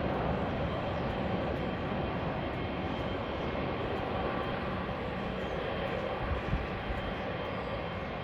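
Airliner engines running, a steady noise that eases slightly toward the end, with a brief low thump about two-thirds of the way through.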